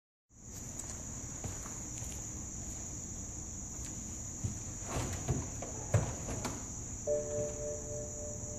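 Insects chirring in a steady high tone throughout, with a few clicks and knocks about five to six seconds in. Near the end a steady tone of a few notes starts.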